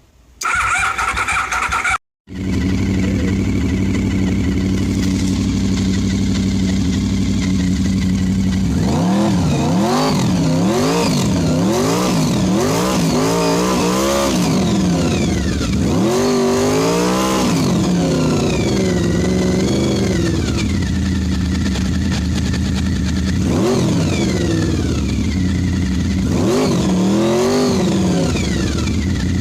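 A 1992 Honda VFR 750F's V4 engine run without a silencer: a short mechanical whirr, a moment's break, then the engine catches about two seconds in and idles steadily. From about nine seconds in the throttle is blipped in repeated short bursts, the pitch rising and falling, dropping back to idle between them.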